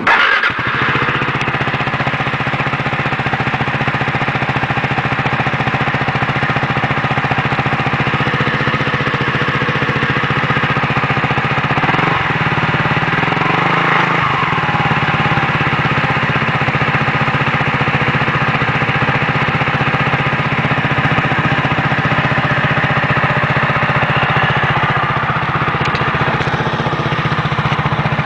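Suzuki Burgman 400 scooter's single-cylinder four-stroke engine running at idle through a Leo Vince aftermarket exhaust, a steady throb. About halfway through, the pitch rises and falls briefly, as from a light blip of the throttle.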